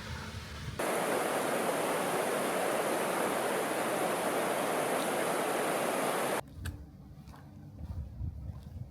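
Steady rush of flowing water, cutting in sharply about a second in and cutting off just as sharply about five and a half seconds later.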